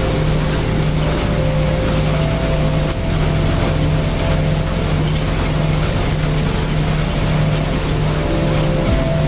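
Heavy rain mixed with brown noise, a dense steady hiss, under a low steady hum and soft held tones that shift about three seconds in and again near the end.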